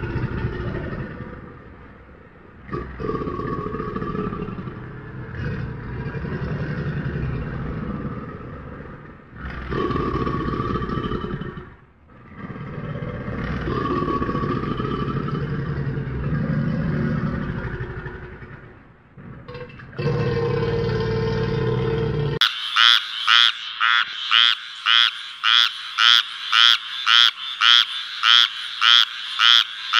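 A crocodile's deep, rumbling growls in long bouts of a few seconds each. About 22 seconds in, they give way abruptly to a frog croaking in a fast, regular series of about two calls a second.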